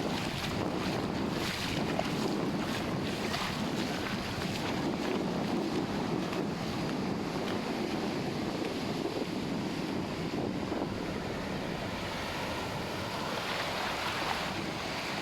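Ocean surf washing on the beach, a steady rush of breaking waves, with wind buffeting the microphone.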